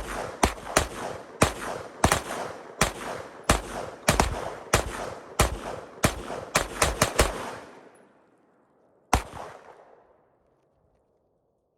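A firearm fired rapidly in semi-automatic fashion: a quick string of about twenty shots over seven seconds, each trailing off in echo, then a single further shot about two seconds later.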